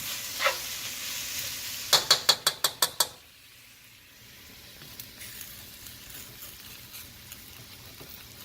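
Vegetables frying in hot olive oil in a wok, a steady sizzle. About two seconds in comes a quick run of about seven sharp taps, and then the sizzle drops suddenly to a quieter, finer crackle.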